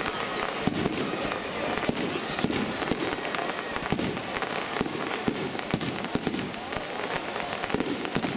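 Aerial fireworks display: a continuous barrage of shell bursts, several bangs a second overlapping one another without a pause.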